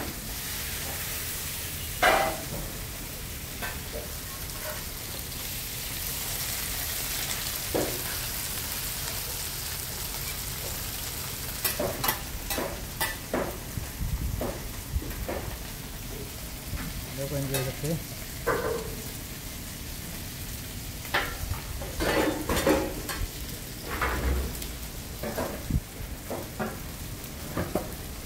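Steady sizzle of food frying in oil on a pan, with scattered knocks and clinks of utensils and metal bowls that come more often in the second half.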